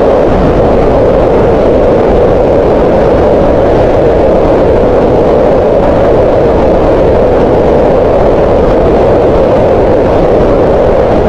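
Green noise: a steady, unbroken hiss with most of its energy in a band around 500 Hz, without pitch, rhythm or change.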